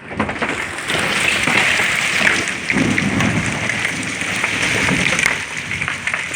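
Golf-ball-size hail pelting down in a heavy storm, a dense, steady clatter of many hard impacts over the roar of falling rain.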